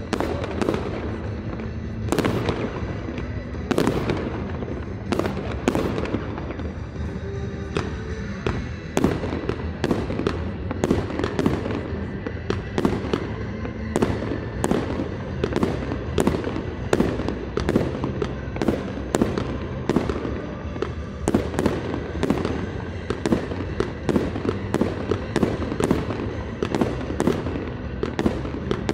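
Fireworks display: shells bursting with sharp bangs in quick succession, growing denser about a third of the way in to a barrage of roughly two bursts a second, over music played through a sound system.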